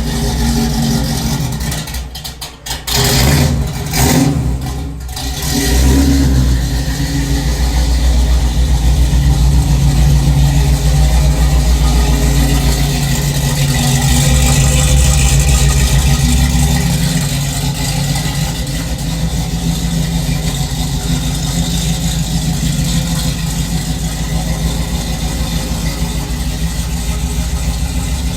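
Supercharged engine of a 1981 GMC C1500 pickup running shortly after a cold start. A few seconds in it stumbles, dipping twice, then holds a steady fast idle that eases slightly lower about halfway through as it warms.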